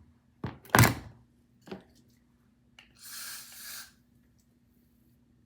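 Three dull knocks within the first two seconds, the middle one loudest, then a short hiss of less than a second.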